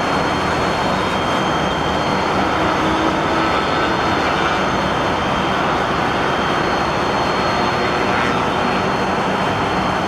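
Boeing 747-400 jet engines running: a loud, steady rush of jet noise with a thin high whine held over it.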